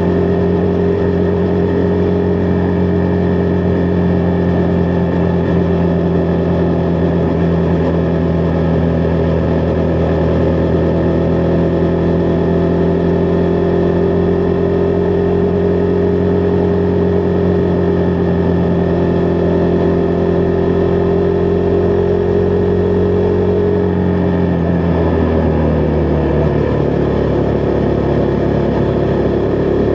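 Husqvarna Vitpilen 401's single-cylinder engine running at steady cruising revs while riding. About three-quarters of the way through, the engine note drops as the revs fall, then rises a little again near the end.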